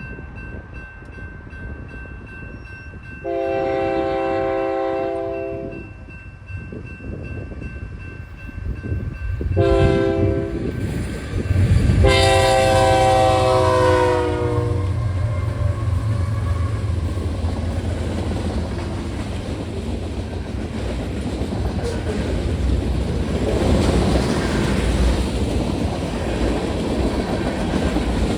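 Freight locomotive horn sounding for the grade crossing: a long blast a few seconds in, a short one near ten seconds, and another long one from about twelve seconds. The lead BNSF GE locomotives then pass with their engines running, and the railcars roll by with steady clickety-clack of wheels on the rails.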